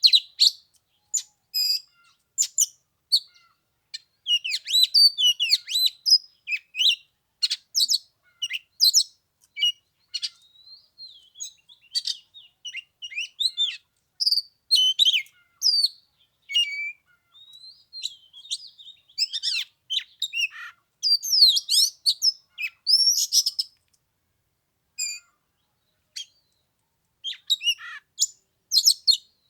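Oriental magpie-robin singing: a varied, quick run of whistles and chirps with brief pauses, a longer pause a little after two-thirds of the way through.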